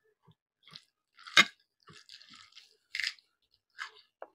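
A person eating a meal of chicken leg, rice and salad: a series of crunchy bites and chews, the loudest about a second and a half in.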